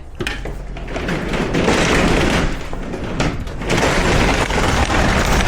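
Semi truck on the move: a steady low diesel drone under loud, swelling wind and road noise, with a few heavy gusts buffeting the microphone.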